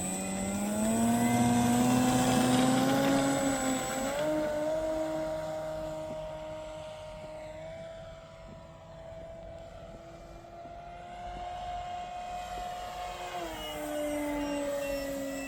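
A radio-controlled model airplane's engine and propeller running in flight, with a steady buzzing note. It climbs in pitch at first, then drops sharply about four seconds in and again near the end, as the plane passes by or is throttled back.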